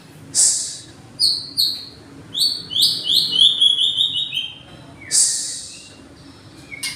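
Songbird singing: a run of short, clear whistled notes that step down in pitch, with a harsh hissing rasp shortly before them and another near the end.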